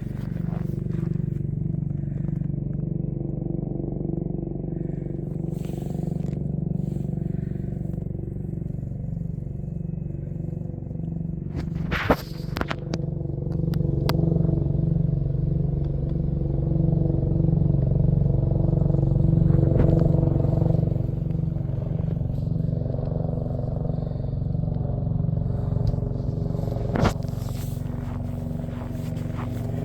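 An engine running steadily with an even, slightly pulsing hum that grows a little louder midway, with two sharp knocks about twelve and twenty-seven seconds in.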